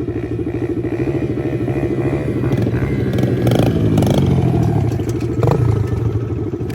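Pit bike engines running close by, with engine pitch rising and falling in the middle, loudest about four seconds in. A few sharp knocks are heard during it.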